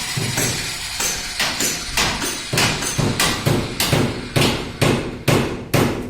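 A rapid, even series of sharp knocks, about two to three a second, growing crisper and more separate from about two and a half seconds in.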